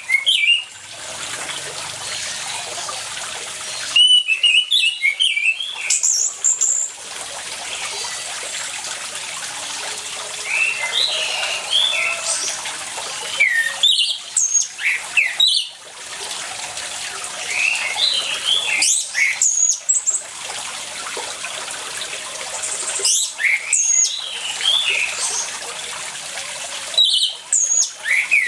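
Orange-headed thrush singing in short bursts of quick, jumping whistled phrases every few seconds, over a steady rush of running water.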